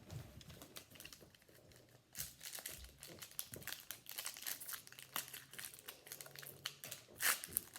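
Foil trading-card pack wrapper crinkling and rustling as it is handled and opened, a rapid run of small crackles from about two seconds in, louder near the end.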